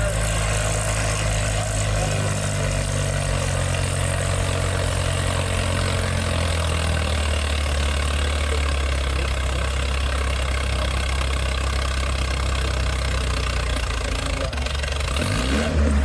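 Antique farm tractor's four-cylinder engine running steadily at a low, even note, its tone shifting about six seconds in and again near the end.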